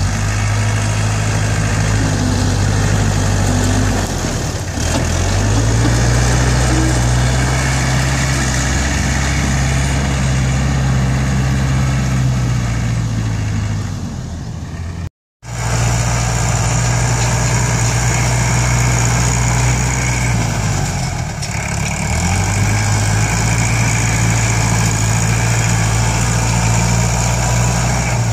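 ISEKI NT554 tractor's diesel engine running hard while it grades and pushes soil, its speed sagging and recovering a few times as the load comes and goes. The sound cuts out for a moment about halfway through.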